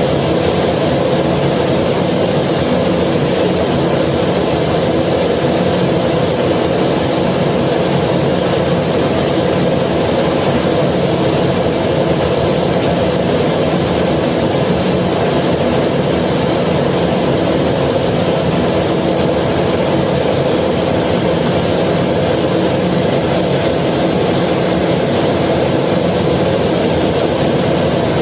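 Ferry's engines running in a loud, steady drone with a low hum underneath, unchanging throughout.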